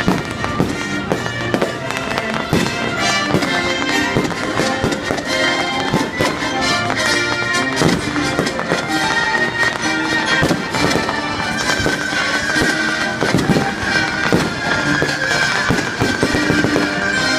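Fireworks going off in a rapid string of bangs over loud music.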